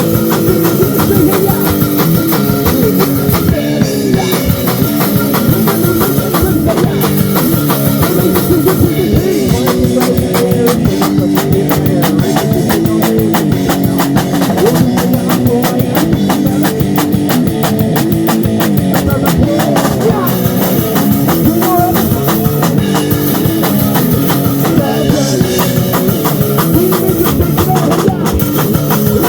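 Loud rock music with a driving drum kit and electric guitar.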